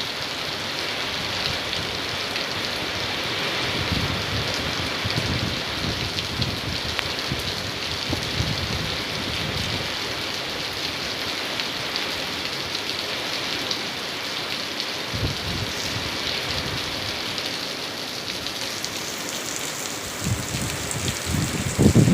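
Rain pouring steadily in a rain-and-wind storm, with low rumbling swells of wind now and then, strongest near the end.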